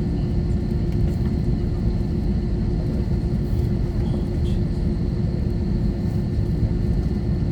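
Cabin noise inside an Airbus A321-231 as it taxis before takeoff: a steady low rumble with a constant hum from its IAE V2500 engines.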